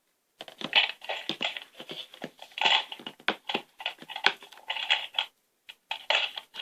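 Sticky homemade glue slime squeezed and kneaded by hand, giving irregular wet clicks and squelches in quick clusters as it is worked with a little borax water while still sticky.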